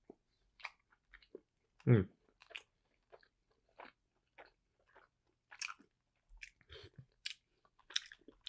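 Close-up eating sounds of a xiao long bao soup dumpling being bitten and chewed: scattered short wet smacks and clicks, with a brief voiced sound about two seconds in.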